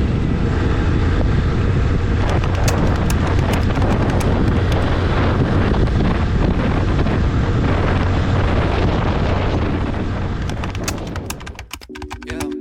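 Heavy wind noise buffeting the microphone over the rumble of a motorcycle riding at speed, with scattered crackles; it fades out near the end.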